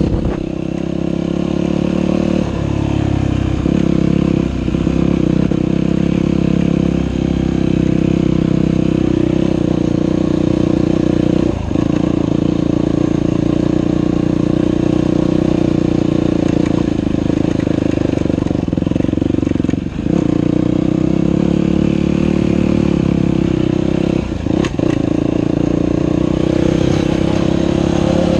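Dirt bike engine running steadily while riding a trail, with a brief drop in engine sound about five times, as when the throttle is rolled off or a gear is shifted.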